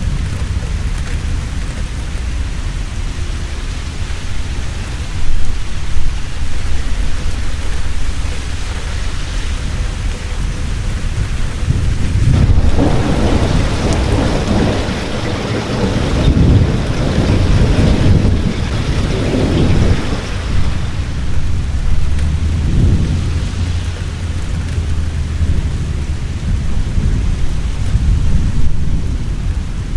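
Heavy rain falling steadily with thunder rumbling, a long rolling peal building from about twelve seconds in and dying away around twenty seconds.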